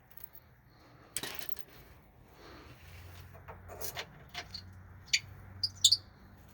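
Scattered light metallic clinks and taps of hand tools being handled, about half a dozen spread out, with a faint steady low hum coming in about three seconds in.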